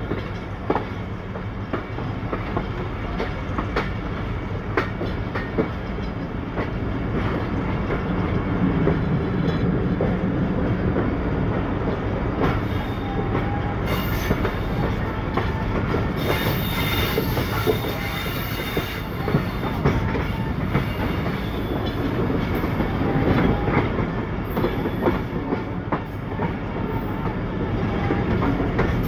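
Passenger train running on a branch line, heard from an open carriage door: a steady rumble with the wheels clicking and clattering over rail joints and points. A high hiss comes up for a few seconds about halfway.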